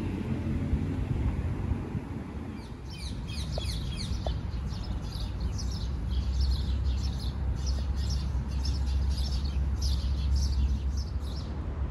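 Small birds chirping busily in a dense, overlapping chatter of short high calls, starting about three seconds in, over a steady low rumble.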